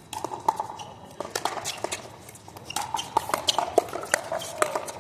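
A pickleball rally: repeated sharp pops of paddles striking the plastic ball, mixed with quick scuffing footsteps on the hard court.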